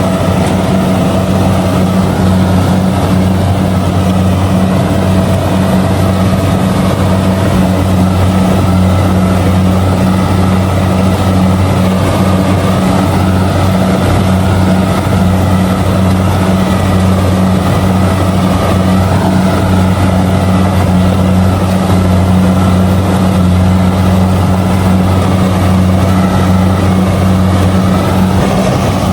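Kubota DC70G combine harvester running steadily while harvesting rice: a constant, loud, low engine hum with the clatter of the cutting and threshing machinery, unchanging throughout.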